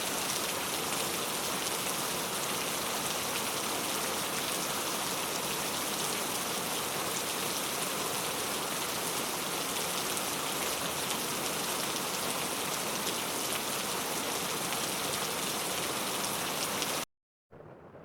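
Steady rain falling, a dense even hiss with no distinct drops standing out. Near the end it cuts off abruptly, and after half a second of silence a fainter, duller steady noise begins.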